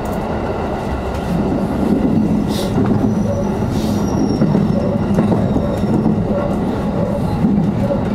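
An electric train running on the line, heard from the front cab: a steady rumble of wheels on rail with a motor hum. A few seconds in come two short high squeaks and a faint thin squeal of the wheels.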